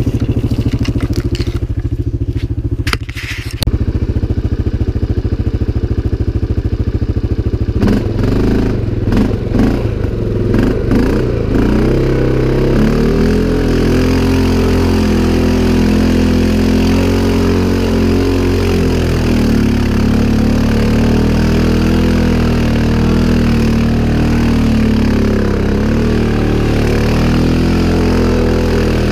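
CFMoto 500 ATV's single-cylinder engine running, its speed changing and wavering about eight seconds in before settling into a steady run.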